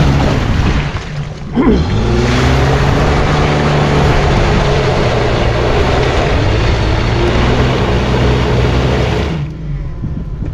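Jeep Liberty's engine revved hard with the tyres spinning in deep mud, the SUV stuck with its differential hung up in a hole it has dug. The revs dip briefly, climb again about a second and a half in, and fall away sharply near the end.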